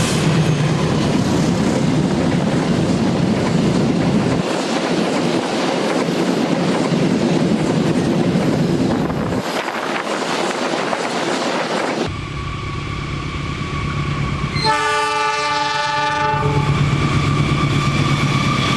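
Freight train running by with a loud rail rumble and wagon noise. Later, a locomotive horn sounds once for about two seconds, among a steady whine from the locomotive.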